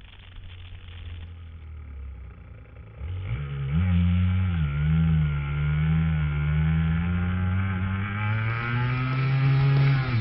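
Aprilia RS125's 125cc two-stroke single-cylinder engine, quiet at first, then loud about three seconds in as the bike comes on. Its pitch climbs, dips briefly, then rises steadily as it accelerates up through the revs.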